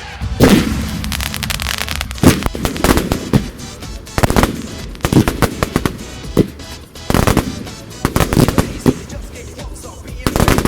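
Professional display fireworks going off in rapid clusters of sharp bangs and crackles, the bursts coming every second or so, with music playing underneath.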